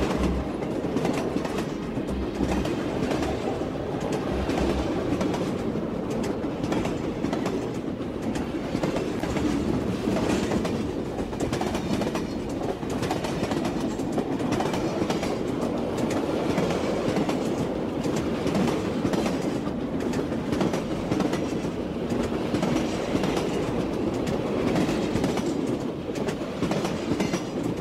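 Passenger train running at speed, heard from inside the carriage: a steady noise of wheels on the rails, with air rushing in through an open window.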